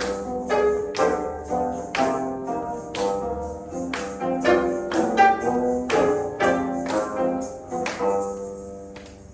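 Instrumental ensemble playing, with pitched notes over jingling percussion strikes about twice a second; the music dies away near the end.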